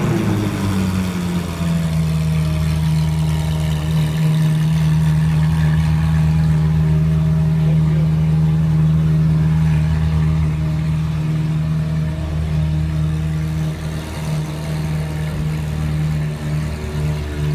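Ferrari 458's 4.5-litre V8 with a decatted Capristo exhaust settling down from a hard rev at the start, then idling steadily.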